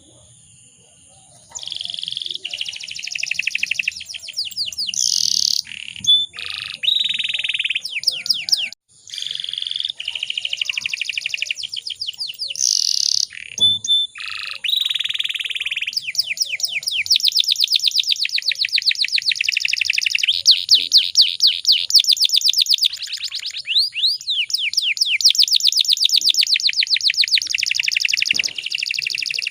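Domestic canary singing: after a quiet first second or so, rapid high trills in short phrases with brief breaks, then from about halfway a long, almost unbroken rolling trill.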